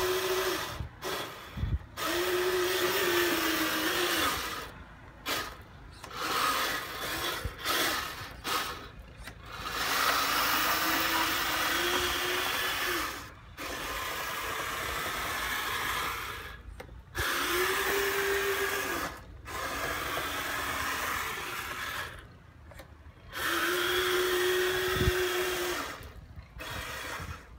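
Electric drive motors and gearboxes of a Kyosho Blizzard RC snowcat whining in repeated bursts, starting and stopping as the throttle is applied and released, with the pitch rising as each burst starts and falling as it ends.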